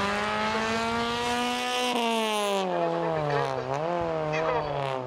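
Suzuki Swift rally car's engine at high revs as it drives through a bend and past: the pitch holds, then drops about two seconds in, rises briefly once, and drops again. A short hiss of tyre noise comes around the two-second mark.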